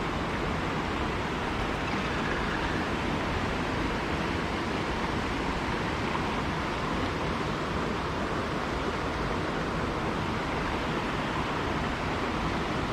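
Creek water rushing steadily over a riffle, a constant even hiss.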